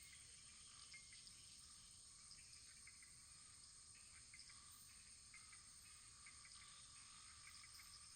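Faint wood fire crackling in a fireplace: a steady soft hiss with small scattered pops and ticks.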